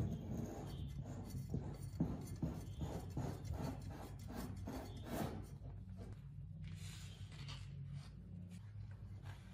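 Repeated rubbing and scraping strokes of hand work on a surface, over a steady low hum; the strokes grow fainter in the second half.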